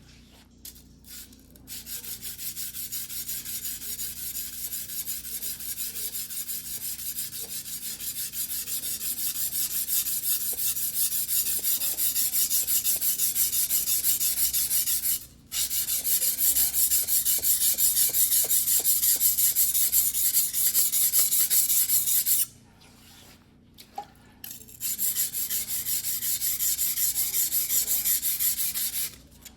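Single-bevel white-steel fuguhiki sashimi knife stroked rapidly back and forth by hand on a wet whetstone, making a steady scraping rasp. It breaks off for a moment about halfway, pauses for about two seconds near three-quarters through, then resumes and stops just before the end.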